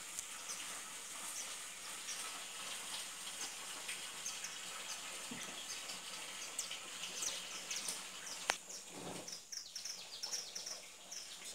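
Small birds chirping in quick, short high notes, thickest in the second half, over a steady background hiss. A single sharp click about eight and a half seconds in.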